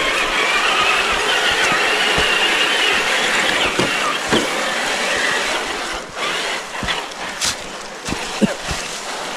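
Traxxas TRX-4 RC crawler's electric motor and geartrain whining under throttle, the pitch wavering as the throttle changes. In the second half the whine eases off and a few sharp clicks and knocks come through.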